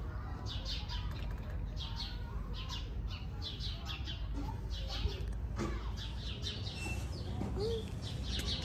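Small birds chirping, many short high chirps about twice a second, over a low steady rumble.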